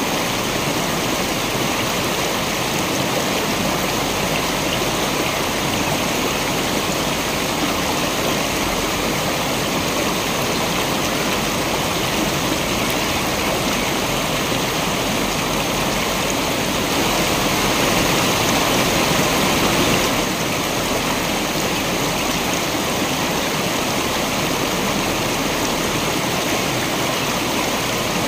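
Waterfall water rushing in a steady, even roar, briefly a little louder about two-thirds of the way through.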